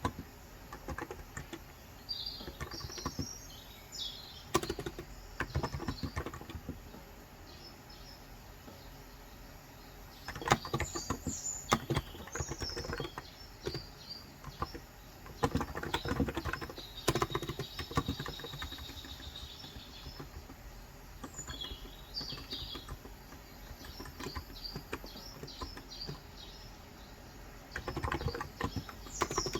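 Typing on a Cox Endeavour electrostatic-capacitive (Topre-style) tenkeyless keyboard with 35 g switches, in several short bursts of keystrokes with pauses between. Small birds chirp outside throughout.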